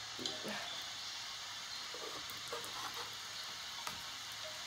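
Faint steady sizzling of oil and a green onion pancake on the hot plate of a Dash Express electric griddle, with a few light clicks from a plastic spatula.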